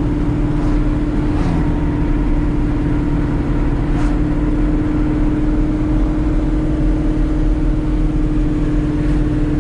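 1970 Chevrolet El Camino cruising at a steady speed while towing a loaded trailer: the engine's drone holds one even pitch over a low road rumble.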